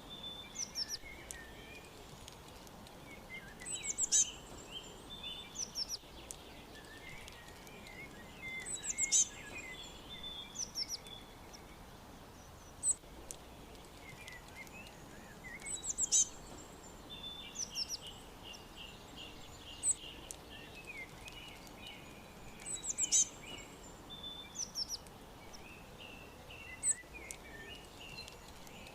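Several songbirds singing over a steady background hiss: one repeats a short, very high-pitched phrase every few seconds, while others chirp and twitter lower, one with a quick run of repeated notes about two-thirds of the way through.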